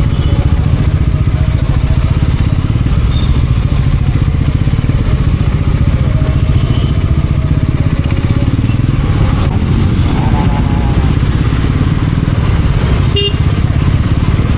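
Bajaj Pulsar NS400Z motorcycle's single-cylinder engine running steadily under way, a deep low-pitched drone with no revving. A brief sharp sound comes near the end.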